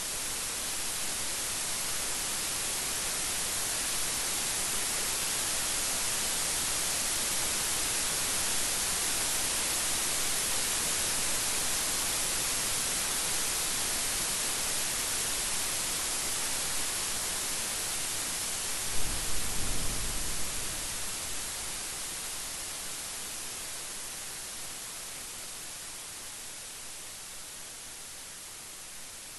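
Steady heavy rain hissing, with a brief crack and rumble of thunder about two-thirds of the way through; the rain eases off a little toward the end.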